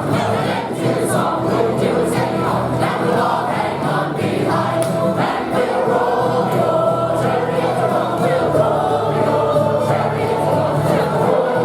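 A group of voices singing a song together, sustained and choir-like.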